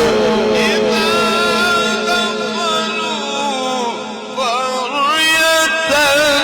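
A male Quran reciter chanting in the melodic mujawwad style, drawing out long ornamented notes with rapid pitch turns, dipping briefly about four seconds in before rising again.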